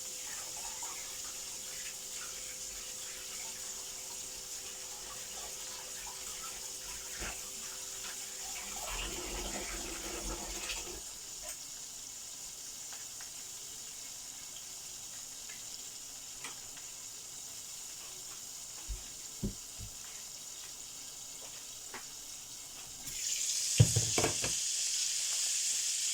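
Chicken strips frying in hot oil in a pan, a steady sizzling hiss. About 23 s in the sizzle jumps louder, with a few knocks.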